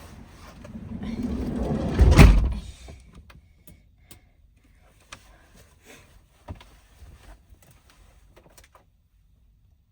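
A van's sliding door rolls along its track and slams shut with one heavy thud about two seconds in, followed by a few light clicks and handling noises.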